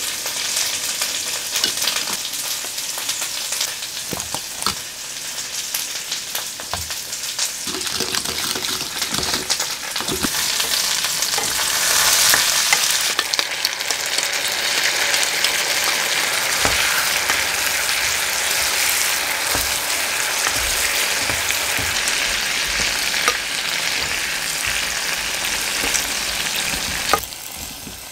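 Pork, sweet potato and bell peppers sizzling in a frying pan while a wooden spatula stirs them. The sizzle grows louder about twelve seconds in, as the sweet-and-sour sauce hits the hot pan, and drops away near the end.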